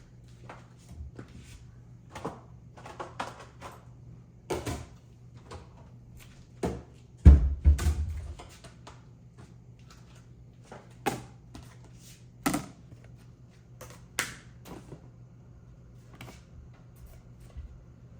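Scattered clicks and knocks of things being handled and set down around the house, with one heavy thump about seven seconds in that is the loudest sound, over a faint steady low hum.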